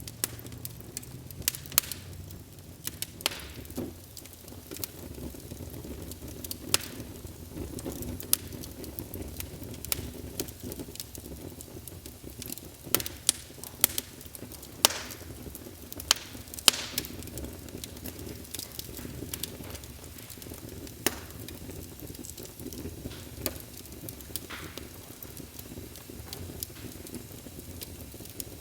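Wood fire burning in a fireplace, with a steady low rumble and hiss and irregular sharp crackles and pops of burning logs.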